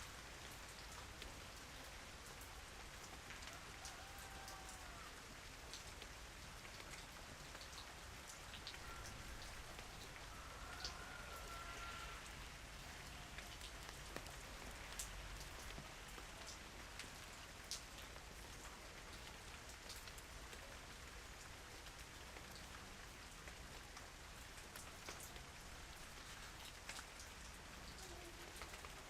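Calm, light rain falling steadily, with many separate drops ticking on a surface.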